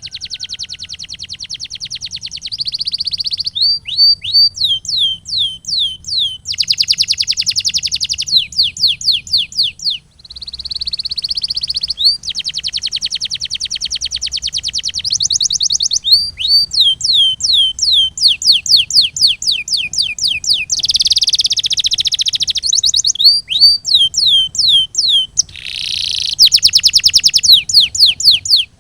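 Domestic canary singing a continuous song: fast trills alternate with runs of quick, falling whistled notes, phrase after phrase, with a brief pause about ten seconds in.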